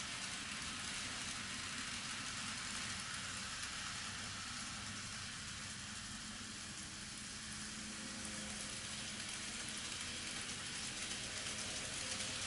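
N scale model train running on the layout's track: a steady whir of the small motor and rolling wheel noise.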